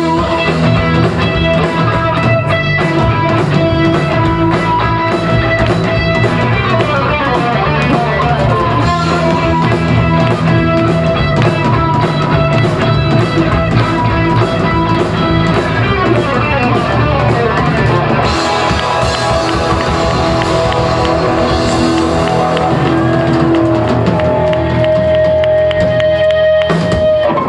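Rock band playing live: electric guitars over bass and a steady drum beat, with guitar lines bending in pitch. About two-thirds of the way through the cymbals thicken, and near the end a guitar holds one long note before the sound breaks off.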